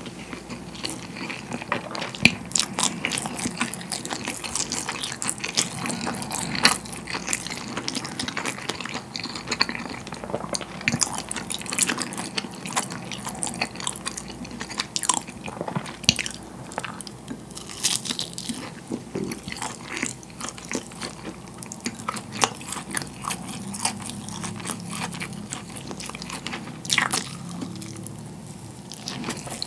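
Close-miked chewing and mouth sounds of a man eating grilled pollock roe (myeongnan) with steamed rice, full of sharp, frequent smacks and clicks.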